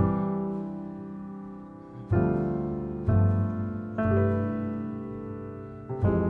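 Solo piano playing slow sustained chords, struck about once a second and left to fade.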